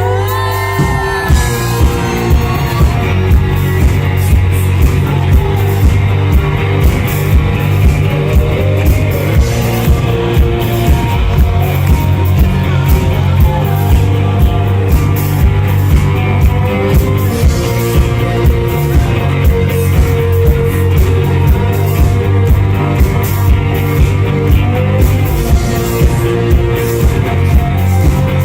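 Rock band playing live, with guitars, a steady drum beat of about two hits a second, and singing.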